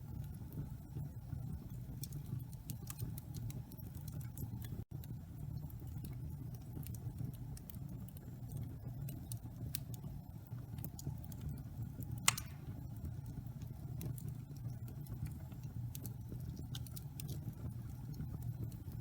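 Wood fire burning in a fireplace: a low steady rumble with scattered crackles throughout and one louder pop about twelve seconds in.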